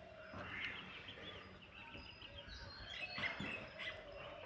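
Birds chirping: many short, quick chirps overlapping throughout.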